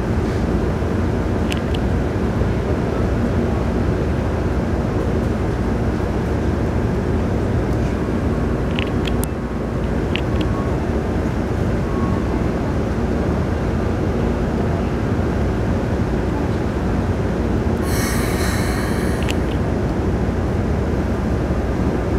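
Keikyu New 1000 series electric train running, heard from inside the passenger car: a steady rumble of wheels on rail and running gear, with a few faint ticks. About eighteen seconds in, a hiss lasting about a second and a half rises over the rumble.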